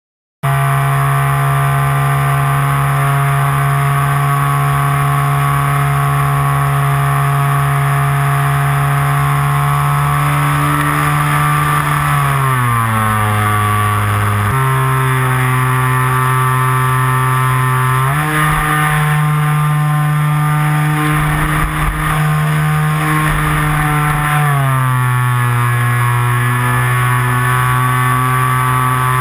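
Radio-controlled Corsair model plane's motor and propeller running steadily at high speed. Its pitch drops a little about twelve seconds in, climbs back about six seconds later, and drops again near the end.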